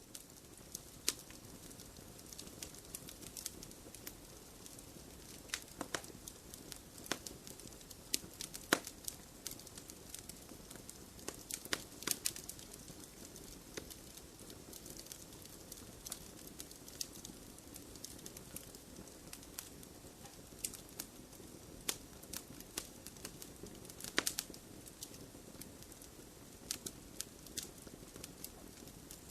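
Wood fire crackling, with a steady soft hiss and many irregular sharp pops and snaps, a few of them louder.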